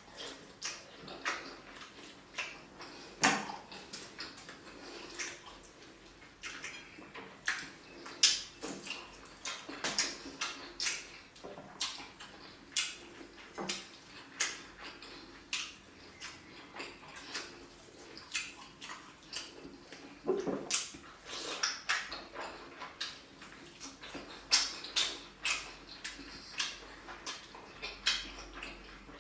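Close-miked eating of tilapia pepper soup and pounded yam: wet chewing, slurps and mouth smacks that come as irregular sharp clicks, one or two a second.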